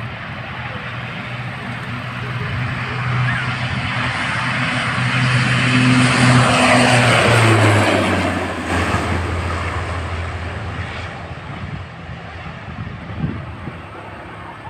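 Propeller aircraft passing by: a steady engine drone with a low tone that drops in pitch as it goes past, loudest about seven seconds in, then fading away.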